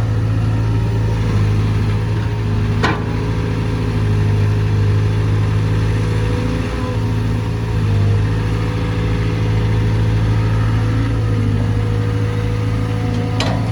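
Caterpillar C4.4 four-cylinder diesel engine of a CAT 320GC excavator running at a steady speed, with a sharp click about three seconds in and another near the end.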